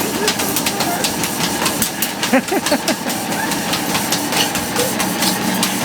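A treadmill running steadily, its motor humming and belt whirring, with a dog's paws striking the belt in repeated clicks as she runs.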